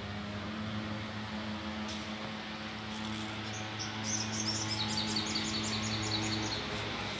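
A small bird gives a quick run of high chirps, about five a second, for some three seconds from about halfway through. Under it runs a steady low machine hum, which stops shortly before the end, and a background hiss.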